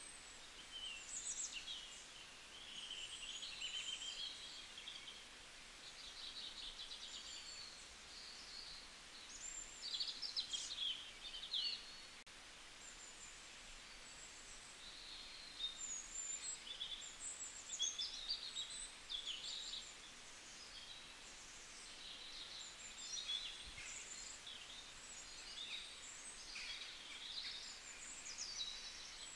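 Birds chirping and singing in short, high phrases that come and go, over a faint steady hiss of outdoor background.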